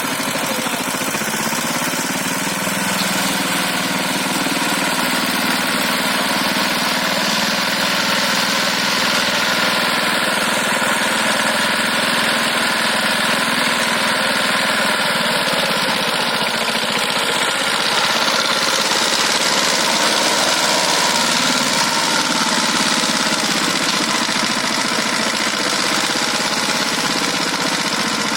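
Power tiller engine running steadily, pulling a trolley loaded with paddy.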